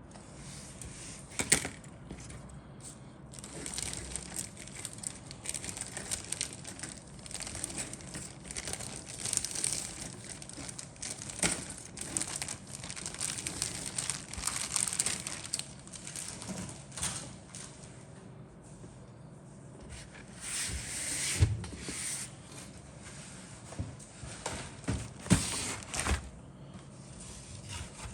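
Model-kit packaging being handled: plastic bags and parts crinkling and rustling in irregular bursts, with a few sharp knocks as pieces are set down or bumped.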